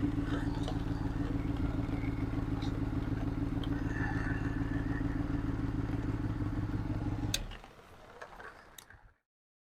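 An engine running steadily at idle, then cutting out about seven seconds in, followed by a few faint clicks.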